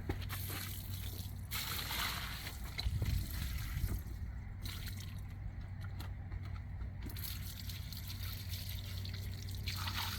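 Soapy water being poured from a bucket and trickling and sloshing onto a truck carpet to presoak it, in uneven spells, over a steady low hum.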